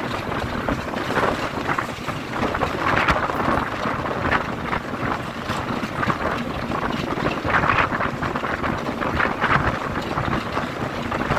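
Wind buffeting a microphone held outside a moving train, in uneven gusts over the running of a Class 33 diesel locomotive's Sulzer eight-cylinder engine as it hauls the train along the line.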